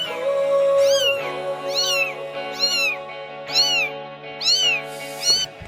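A kitten meowing over and over, about once a second, each meow rising then falling in pitch, over soft sustained background music.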